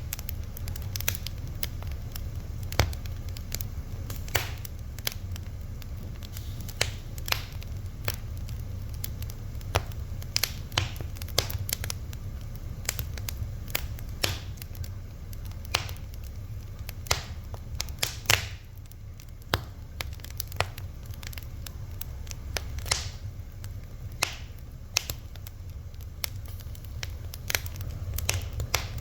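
Wood fire burning: irregular sharp crackles and pops, several a second, over a steady low rumble of the flames.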